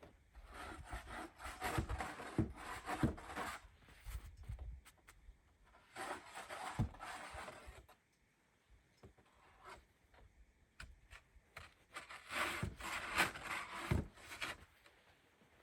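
Rough rubbing and scraping noises in three bouts, with small knocks among them and quieter gaps between.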